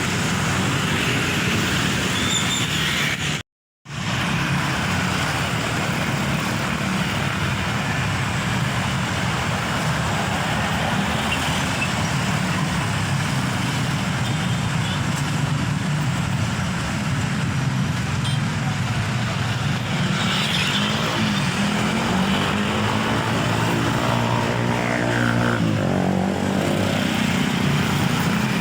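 Continuous road traffic noise with the diesel engine of a heavy truck running, cut off briefly about three and a half seconds in. From about twenty seconds in, a truck engine's note rises and then falls as it pulls through.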